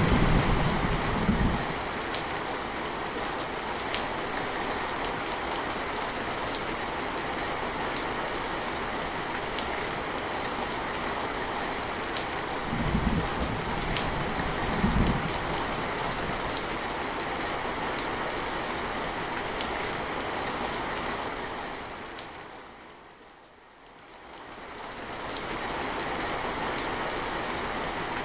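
Steady rain falling, with scattered sharp drip ticks. A low thunder rumble dies away in the first second or two, and two short low rumbles come a little before halfway. About three-quarters through, the rain fades almost out and then swells back.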